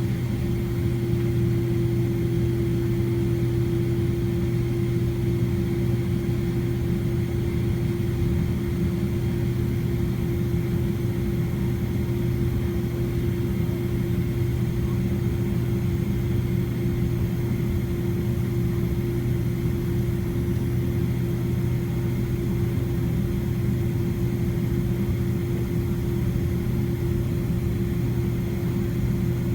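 Steady cabin drone of a Boeing 767-300ER heard from inside the cabin, its engines running at idle, with a constant low hum and a steady higher hum over a rumble.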